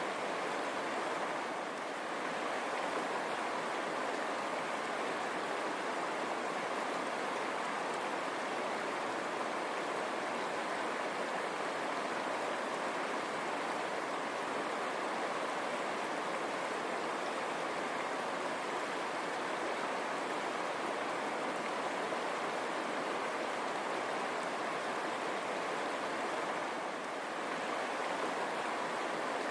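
River water running and splashing over rocks, a steady unbroken rush.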